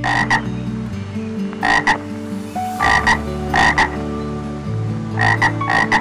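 Short animal calls in quick pairs, a fifth of a second apart, repeating about every second, over a soft background music bed.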